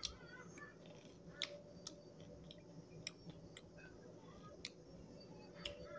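Faint close-up chewing of a mouthful of rice and goat meat, with scattered wet mouth clicks and smacks, roughly one every half second to second.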